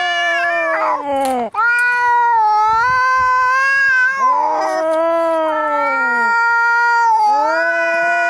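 Cats caterwauling in a fight: long, loud, wavering yowls that overlap one another, with a brief break about a second and a half in.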